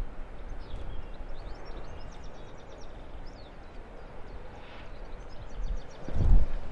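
Small birds singing in quick chirping phrases over a low outdoor rumble, which swells briefly near the end.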